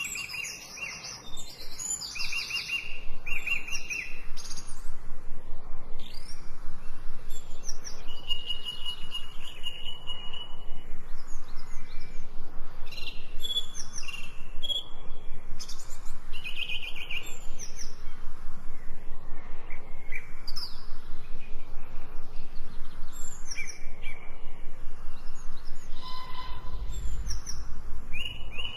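Several birds chirping and singing in short, high calls and trills over a steady rain-like patter, with a brief low rumble near the end.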